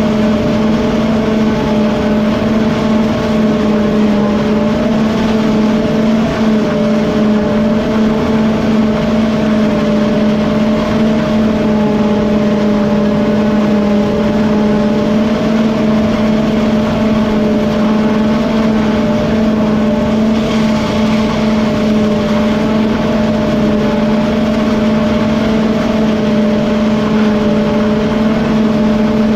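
Engine running at a steady speed, a constant drone that holds its pitch throughout.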